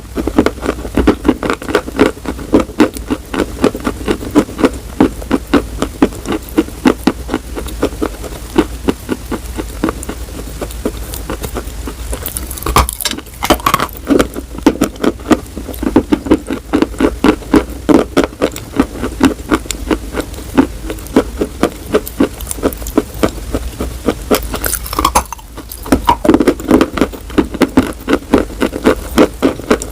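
Close-up chewing of something hard and crunchy: a dense, continuous run of crisp crunches, several a second, with two short pauses, about 13 s in and about 25 s in.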